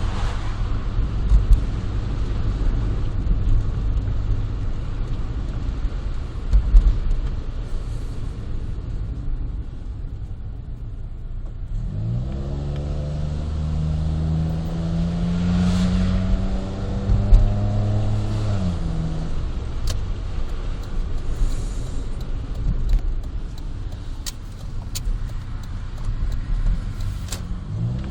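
Honda Life JB5's 660 cc three-cylinder engine through a Rosso Modello GT-8 aftermarket muffler, heard from inside the moving car with a window open. Low road rumble at first, then about twelve seconds in the exhaust note rises under acceleration, holds, and drops away around eighteen seconds; it picks up again right at the end.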